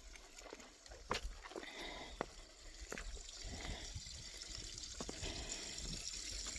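Running water trickling and splashing, growing louder toward the end, with scattered clicks and knocks over it.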